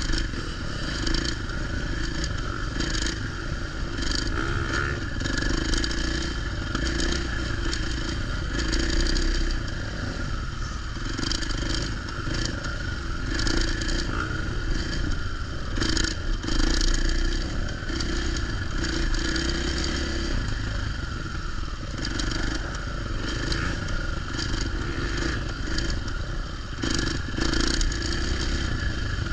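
Motocross dirt bike engine running while being ridden, with many short clattering knocks over the steady engine and wind noise.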